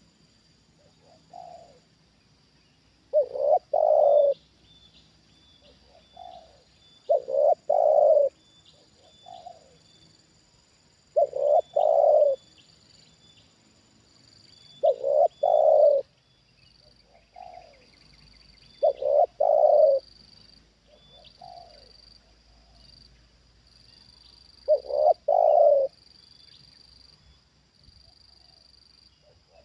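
Spotted dove cooing its repeated song, a soft opening note followed by a loud multi-note coo, about once every four seconds. Faint high chirps and a steady high whine sit in the background.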